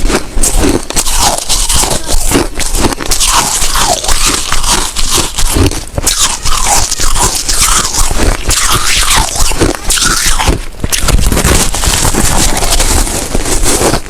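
Snow ice being bitten and chewed close to the microphone: a continuous run of loud, irregular crunches and crackles as the frozen chunks break between the teeth.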